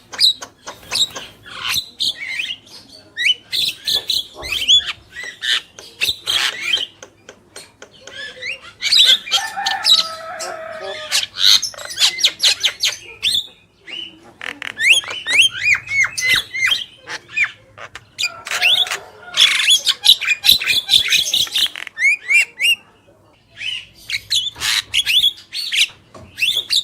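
Javan mynas (jalak kebo) calling energetically: rapid runs of harsh clicks and squawks mixed with short whistles sliding up and down. They come in bursts, with a couple of brief lulls.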